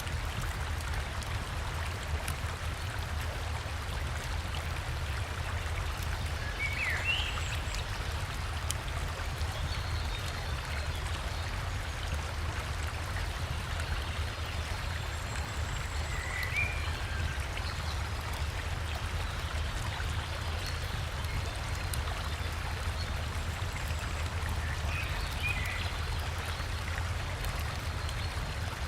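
River water rushing steadily over a small waterfall, a constant low rumble with splashing hiss. A bird gives a short chirp three times, spaced several seconds apart.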